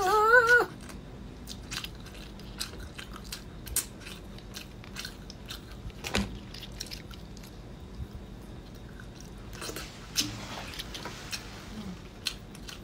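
Close-miked eating sounds: wet chewing and mouth clicks, with a metal spoon scraping out the soft inside of a starfish. The clicks come irregularly, the sharpest about six seconds in, after a brief voiced sound at the very start.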